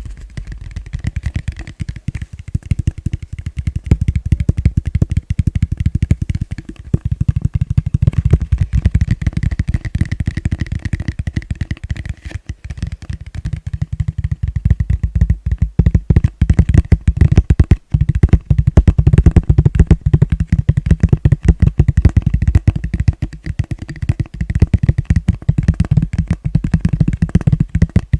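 Fast, gentle tapping on a plastic bowl: a dense, unbroken run of quick taps, many to the second, louder from about four seconds in.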